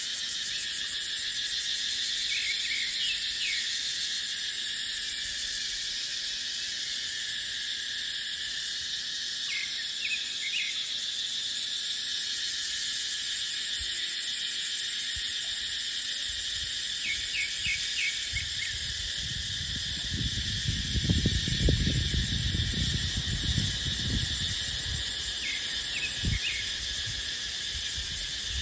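Cicadas droning steadily in a high, continuous chorus, with a few short chirps now and then. About two-thirds of the way in, gusts of wind start to rumble on the microphone.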